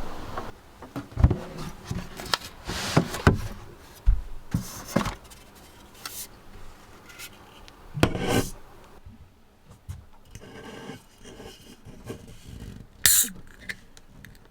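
Gear being handled: a string of irregular knocks, scrapes and rustles, with a sharp clatter about eight seconds in and another near the end.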